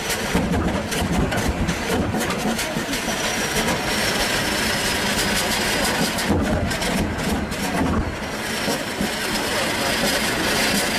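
Large nine-cylinder turbocharged diesel generator engine running loud and steady, with a thin high whine that slowly falls in pitch through the second half.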